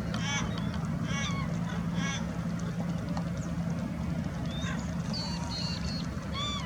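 Water birds calling: short, arched, honking calls repeated at irregular intervals, a few close together near the end, over a steady low hum.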